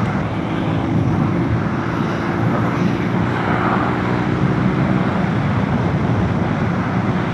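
Motorcycle engine running at a steady cruise, its hum steady in pitch, under a constant rush of wind on the microphone.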